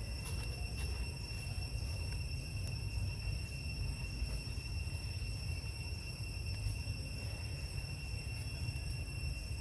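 Insects droning steadily in a high, unchanging tone, over a low rumble.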